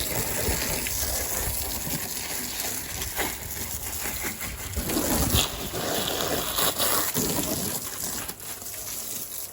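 Water spraying from a garden hose onto vegetable beds, a steady hiss, with wind buffeting the microphone.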